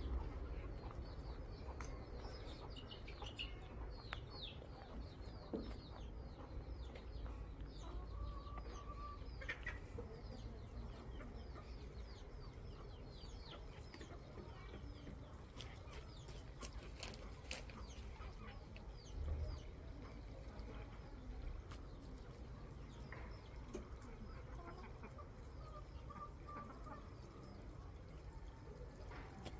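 Faint bird calls: a steady run of short, high, falling chirps, with a lower held call now and then. A soft low thump comes about nineteen seconds in.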